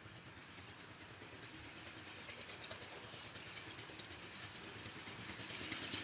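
Steam-hauled train approaching, faint at first and growing steadily louder, with a hiss and a few light rail clicks.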